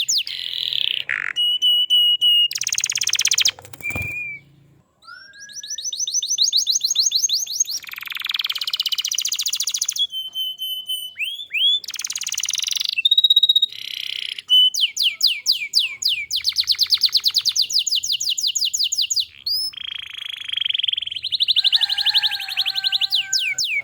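Domestic canary singing in long, rapid trills of fast repeated notes, mixed with short whistled glides and buzzy rolls. There is a brief pause about four seconds in.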